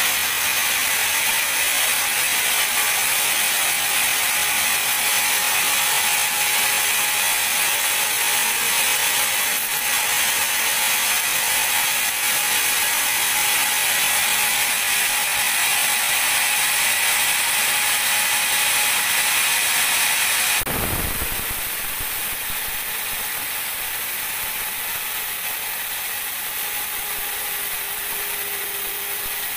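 Sawmill band saw cutting teak: a loud, steady hiss of the blade in the wood. About two thirds of the way through there is a low thump, and after it the saw runs on steadily but quieter.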